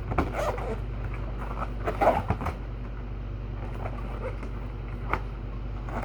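Scattered knocks and rustles of drink containers being handled and moved while searching for one, over a steady low hum.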